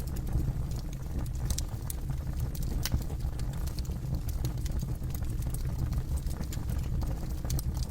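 Campfire burning with a steady low rumble and irregular sharp crackles and pops from the burning wood, a few louder snaps standing out.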